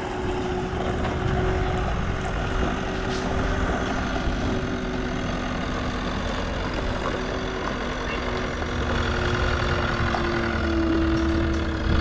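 Engine of a piece of heavy equipment running steadily, with a steady whine over it.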